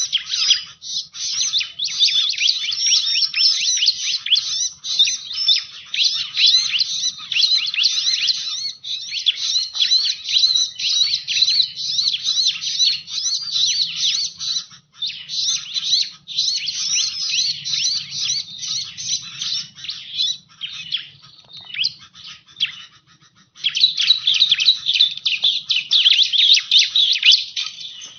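Bar-winged prinia (ciblek) song played as a bird-trapping lure call: a dense run of rapid, high chirps and trills. It thins out briefly a little past two-thirds of the way through, then comes back just as dense. A faint low hum sits underneath.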